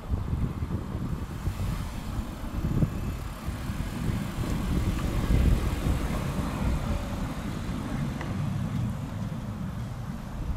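Low rumble of road traffic, swelling to a peak about five seconds in and then easing off.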